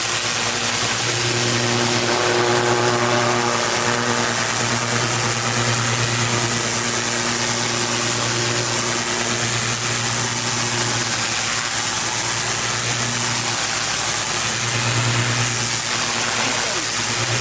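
Pressure washer's gas engine running steadily at a constant hum, with the steady hiss of the high-pressure water spray over it.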